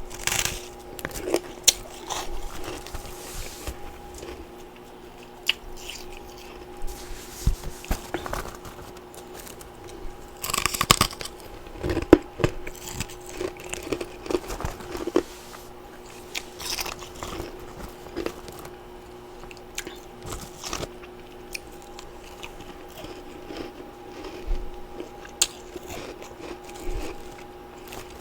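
Biting and chewing of humidifier-grown freezer frost and ice chunks: irregular crisp crunches with quieter chewing between, and a longer burst of crunching about eleven seconds in.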